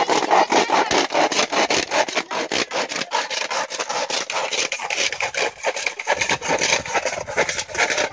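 Rapid back-and-forth scraping strokes of a hand tool working material, in the manner of hand sawing, several strokes a second.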